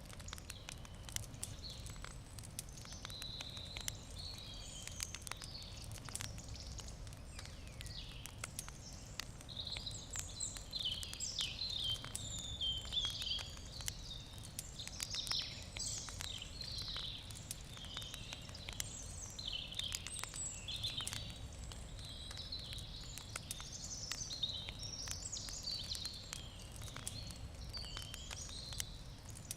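Wood campfire crackling with frequent small pops, while birds chirp and twitter throughout, busiest in the middle stretch.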